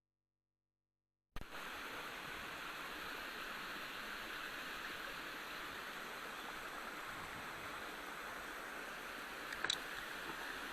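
Steady rush of runoff water pouring down a typhoon-collapsed slope like a small waterfall, starting abruptly about a second in, with a couple of faint clicks near the end.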